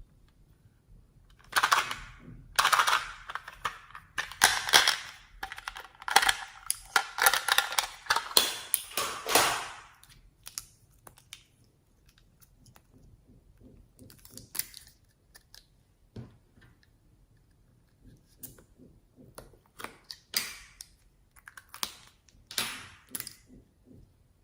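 Slime being squished and folded by hand, giving a dense run of wet clicks and air-bubble pops, then scattered single pops in the second half.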